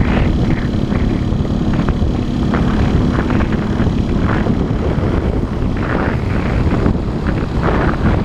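Motorcycle engine running while riding, with wind rushing over the camera microphone; a steady engine tone in the first two seconds gives way to a more even rush of engine and wind noise.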